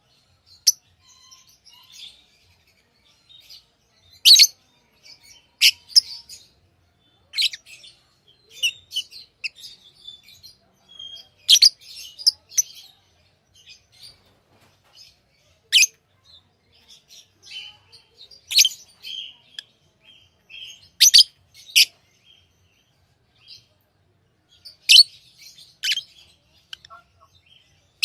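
Pet lovebirds chirping: short, sharp, high-pitched calls at irregular gaps of a second or more, with softer twittering between them.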